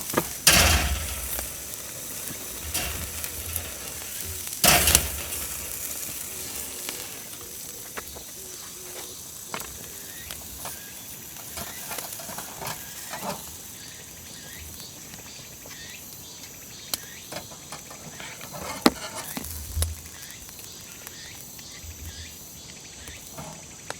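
Pork ribs sizzling steadily on a grill, with two sharp knocks about half a second and about five seconds in.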